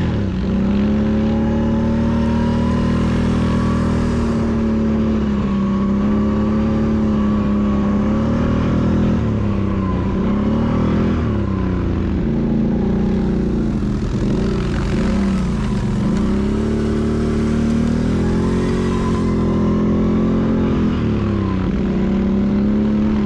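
Can-Am Renegade 500 ATV engine running under way at a steady pace, its note dropping and climbing back several times as the throttle is eased and reopened, mostly in the middle and near the end.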